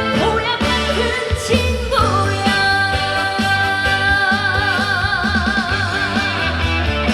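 Trot song performed live: a woman singing over a backing track, holding one long note from about two seconds in, with vibrato coming in partway through.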